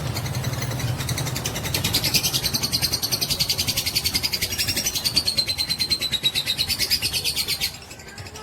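Lovebird giving a long, rapid, high-pitched chattering trill (the 'ngekek' prized in fighter lovebirds), which cuts off suddenly near the end.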